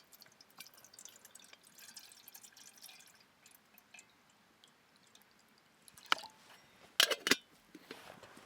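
A scatter of faint small clicks and ticks, then one sharp loud click about six seconds in and a quick cluster of three or four louder sharp clicks a second later.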